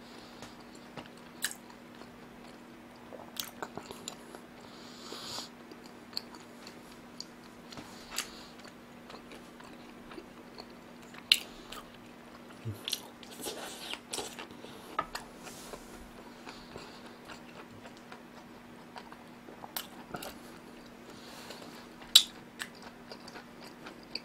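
A person chewing food close to a microphone: soft chewing broken by a few sharp clicks now and then.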